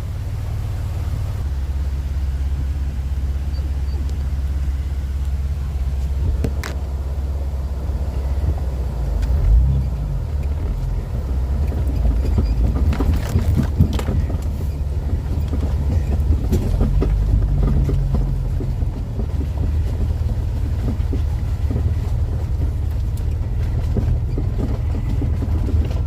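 Jeep driving slowly, its engine and drivetrain making a steady low rumble with a brief swell about ten seconds in, and scattered sharp taps over it.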